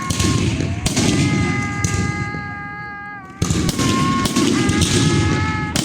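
Fireworks going off in a dense barrage of crackles and bangs, with several steady whistling tones from whistling fireworks over the top. The sound breaks off sharply and starts again twice.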